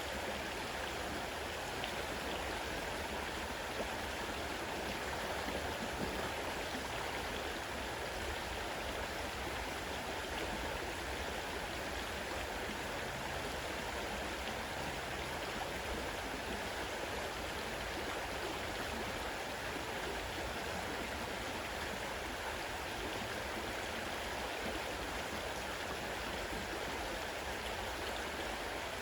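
A fast-running river rushing steadily over its bed.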